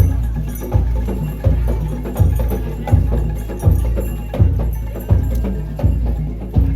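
Bantengan percussion music: a deep, booming beat strikes evenly about every three quarters of a second, with lighter wooden knocks and clattering strokes between the beats.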